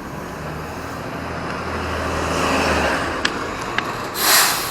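A motor vehicle passing on a city street: engine rumble and road noise build to a peak and then ease off. Near the end come two sharp clicks and a brief loud hiss.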